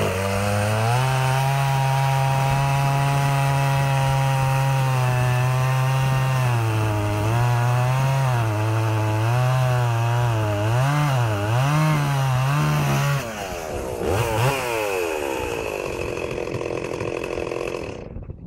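Stihl 038 Magnum two-stroke chainsaw at full throttle cutting wood, its engine speed wavering and dipping under load in the cut. It drops back to idle about 13 seconds in and stops just before the end.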